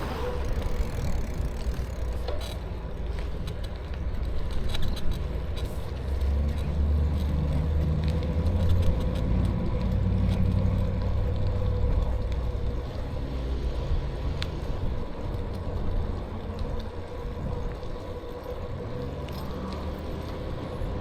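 Riding an e-bike: wind rumble on the microphone and tyre noise, with a steady whine from the electric motor.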